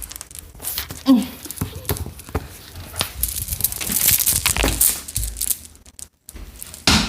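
Close rustling, crinkling and scraping noise in irregular bursts, with a short pitched squeak about a second in.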